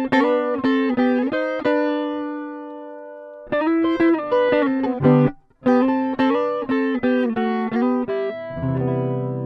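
Guitar playing a song's opening melody as separate plucked notes. A held note rings out and fades in the middle, and a fuller low chord comes in near the end.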